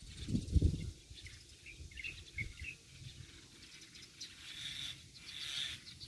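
Small birds chirping in short high notes, several in quick succession about two seconds in. A brief low rumble sounds near the start, and a soft hissing rush comes near the end.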